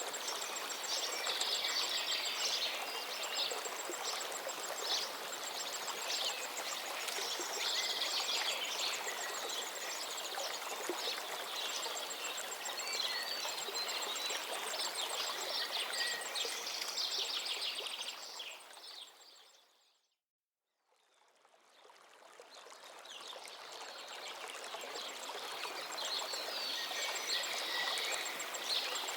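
Steady rush of a river or stream with several small birds singing and chirping over it. About two-thirds of the way through, everything fades out to silence for about a second and then fades back in.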